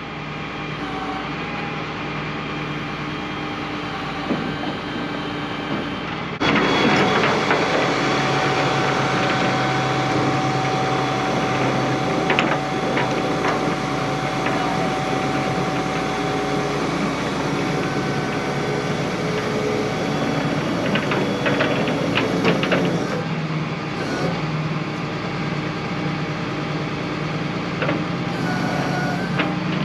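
A vehicle engine running steadily, with a mechanical sound that grows louder and busier about six seconds in, and scattered clicks and knocks later on.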